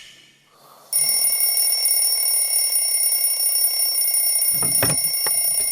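A steady high-pitched electronic tone, several pitches sounding together, starting suddenly about a second in and holding unbroken, with a few short knocks near the end.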